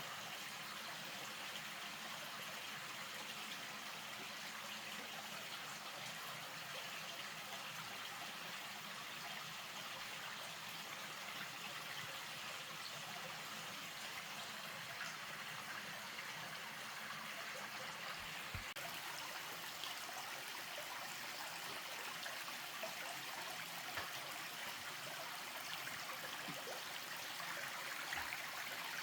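Steady rushing, trickling water, with a few faint low knocks in the second half.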